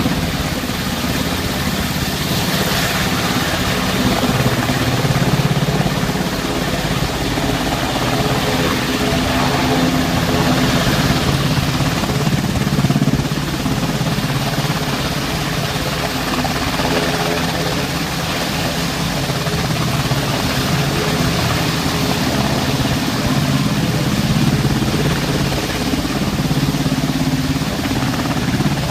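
Coast guard search-and-rescue helicopter running at close range: a steady, loud turbine whine and rotor noise that holds level throughout.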